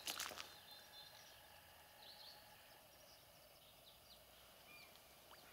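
Near silence, with a brief rustle at the very start and a few faint, short bird chirps scattered through the rest.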